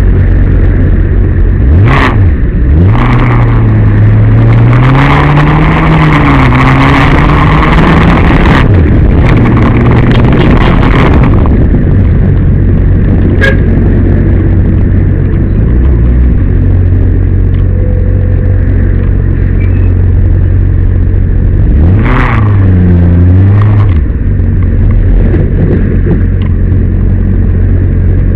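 Motor vehicle engine running with steady road noise. The engine pitch rises and falls a few seconds in and again about 22 seconds in.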